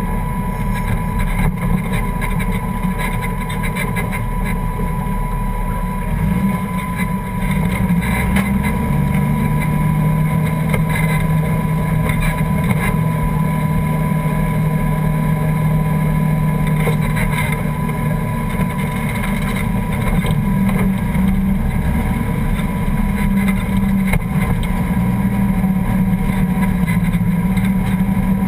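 Toyota 1JZ straight-six engine in a Ford Escort race car running at low revs, heard from inside the cabin as the car rolls slowly. The engine note holds mostly steady, shifting a little a few times.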